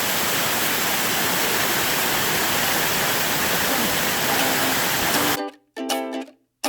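Loud, steady rush of a waterfall. About five seconds in, it cuts off suddenly and plucked-string music begins with separate ringing notes.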